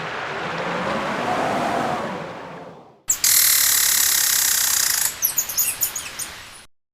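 Wind noise with a slowly wavering howl fades out. After a short gap, a small bird chirps in a loud, rapid high-pitched run, then gives a series of separate quick chirps that stop abruptly.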